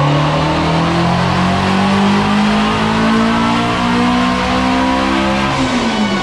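Twin-turbo Shelby GT350R's 5.2-litre flat-plane-crank V8 making a wide-open-throttle pull on a chassis dyno, its revs climbing steadily, then falling away near the end.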